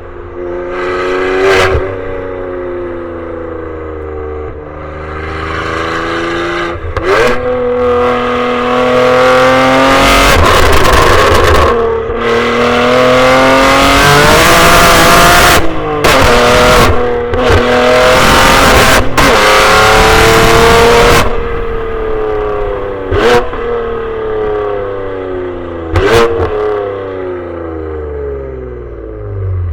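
BMW G87 M2's twin-turbo inline-six through its exhaust with the valves open, very loud, accelerating and backing off repeatedly, its pitch climbing and then dropping as it is driven through the gears of its six-speed manual. The loudest pulls come in the middle and the recording distorts from clipping.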